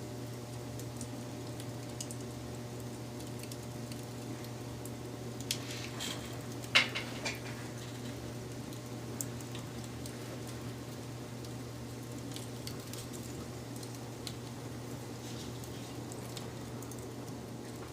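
Wood fire crackling: scattered small crackles over a steady low hum, with a sharp, loud pop about seven seconds in and a few smaller pops either side of it.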